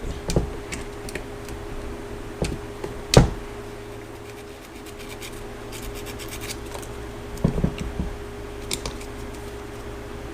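Hand tools and metal parts being handled during torque-wrench work on a motorcycle starter: scattered clicks and knocks, the sharpest about three seconds in and a quick cluster a little past halfway, over a steady hum.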